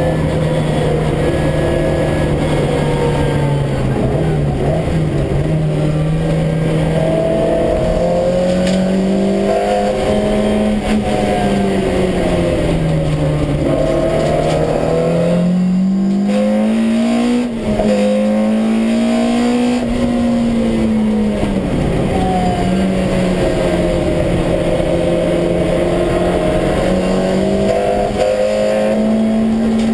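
Honda CRX's B18 four-cylinder engine on individual throttle bodies, heard from inside the stripped cabin, running hard on track. The revs climb and fall again several times as the car accelerates and slows, with a brief dip in level about seventeen seconds in.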